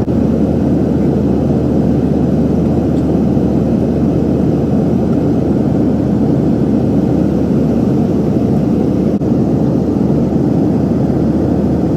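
Inside the cabin of a jet airliner taking off: a steady low rumble of the jet engines and rushing air.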